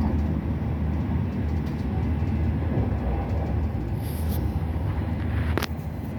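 Steady low rumble and hum of a passenger train running, heard from inside the carriage. A short hiss comes about four seconds in, and a single sharp click about five and a half seconds in.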